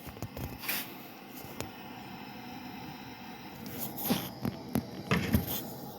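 Soft food-preparation handling noises: a few short taps and clicks scattered through, a small cluster of them just before the end, over a faint steady background.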